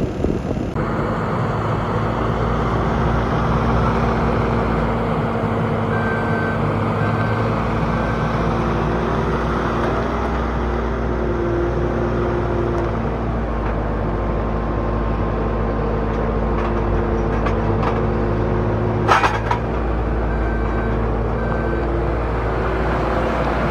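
Bobcat T740 skid steer's Bobcat diesel engine running steadily, with higher whining tones that come and go as the machine is worked. A brief sharp clatter about three quarters of the way through.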